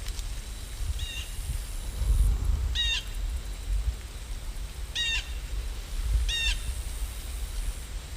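A bird calling four times, each call short, a second or two apart, over a steady low rumble.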